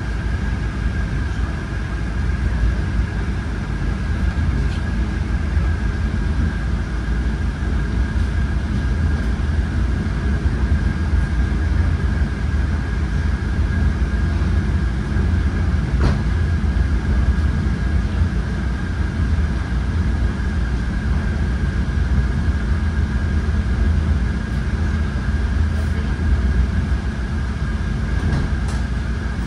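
Polregio regional train under way, heard from inside the carriage: a steady low rumble of the running gear with a constant high-pitched whine over it, and a single sharp click about halfway through.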